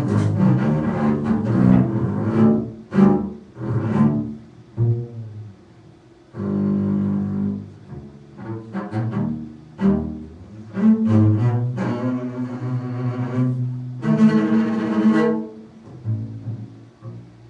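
Solo low bowed string instrument playing contemporary concert music: held bowed notes alternating with short, sharply attacked accents, with brief pauses between phrases.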